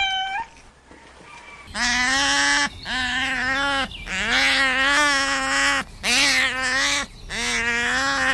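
A farm animal calling: five long, level-pitched calls with short gaps between them, after a brief higher-pitched call at the very start.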